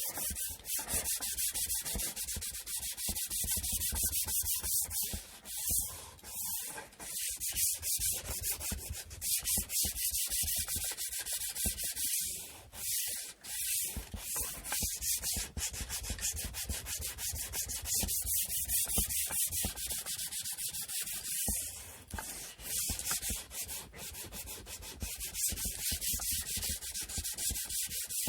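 Sandpaper rubbing on a wooden inkle loom part by hand in rapid back-and-forth strokes, with a few short pauses.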